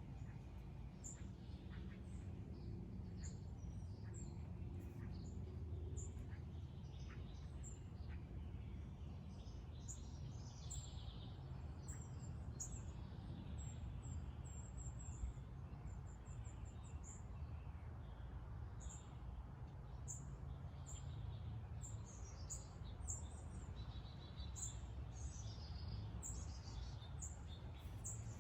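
Small birds chirping and twittering in short high calls, more of them in the second half, over a steady low rumble of outdoor background noise.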